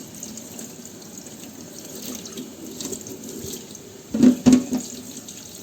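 Tap water running into a sink while a greasy dishwasher filter part is rinsed clean under it. About four seconds in, two short loud thuds.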